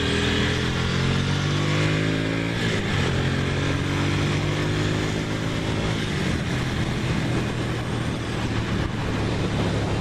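Ducati Monster's V-twin engine under way. Its note climbs, breaks briefly about three seconds in, climbs again, then holds steady, with road and wind noise underneath.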